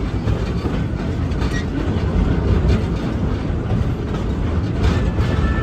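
Passenger train of the Georgetown Loop Railroad running along its track, heard from aboard: a steady low rumble of wheels on rails. A faint thin high tone, like a wheel squeal, comes in near the end.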